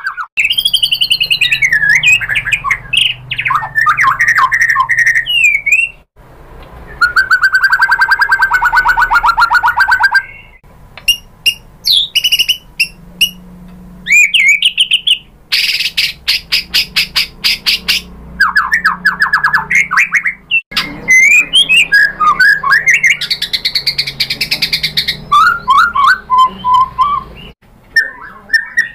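White-rumped shama (murai batu) singing a loud, varied song of sweeping whistles, rapid repeated notes and trills, in phrases broken by short pauses.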